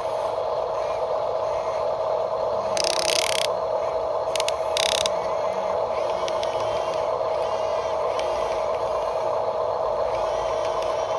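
Small electric motor and plastic gearbox of a radio-controlled construction model running with a steady whine, with two short bursts of hissy scraping about three and four and a half seconds in.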